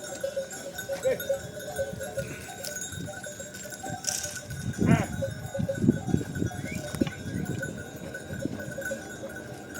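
Bells on a herd of sheep or goats clinking continuously, with a single short animal call about five seconds in.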